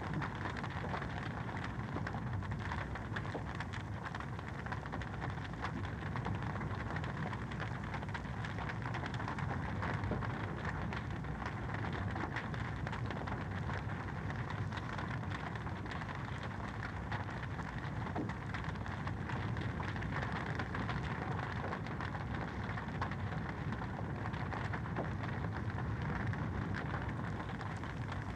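Wood fire in a fireplace crackling steadily: a dense run of small pops and snaps over the low, even rush of the flames.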